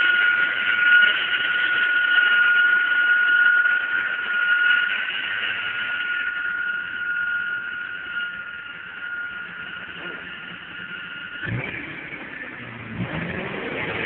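1997 Honda Civic's rebuilt engine running at idle, with a steady high whine over it that cuts off suddenly about eleven seconds in.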